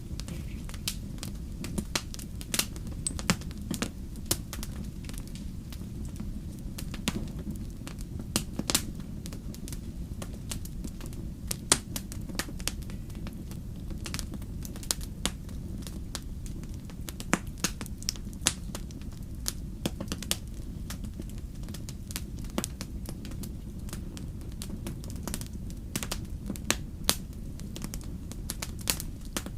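Fire crackling: irregular sharp pops and snaps, several a second at times, over a steady low rumble.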